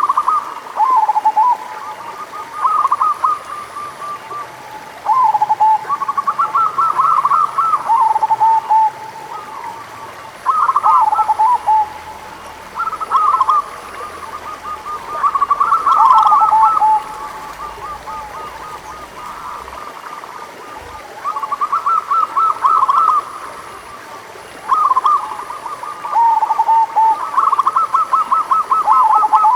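Zebra doves (perkutut) cooing: short phrases of quick, stuttering coo notes, repeated every two to three seconds, with more than one bird calling at slightly different pitches and often overlapping.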